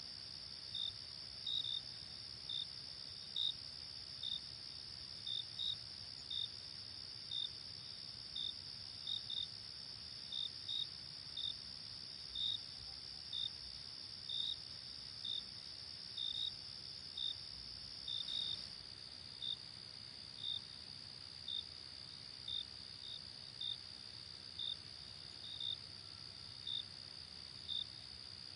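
Crickets at night: a steady high trill under short, regular chirps about once a second, some in quick pairs. The trill shifts slightly lower about two-thirds of the way through.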